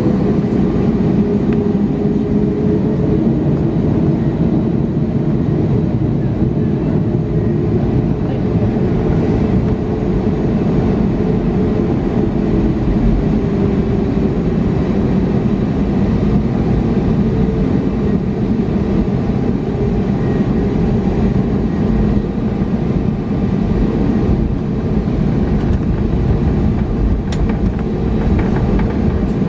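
Cabin noise of an Airbus A320neo during takeoff: its CFM LEAP-1A engines run at high thrust under a loud, steady rumble with a low drone.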